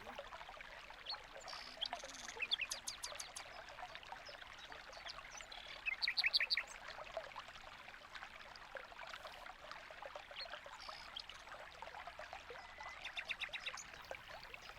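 Small finches chirping in short, quick runs of high notes, three times, over a steady trickle of running water.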